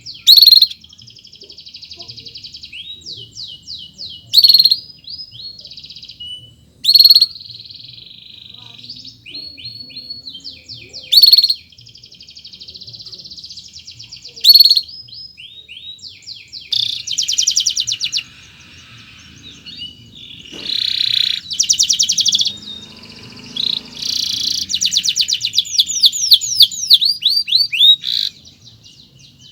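Domestic canary singing a long, continuous song of high-pitched trills and rapid chirp series. Loud, sharp call notes break in every few seconds, and the trilling grows denser and busier over the second half.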